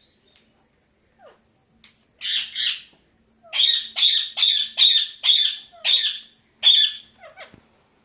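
A pet parakeet squawking: two harsh calls, then a run of seven loud, harsh screeches at about two a second.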